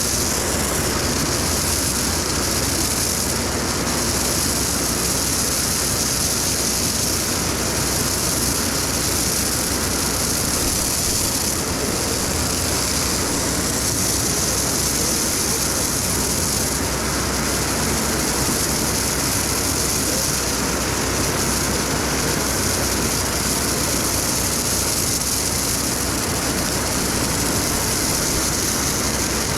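Stone slinger truck running steadily: a continuous, even heavy-machine noise with a strong hiss on top.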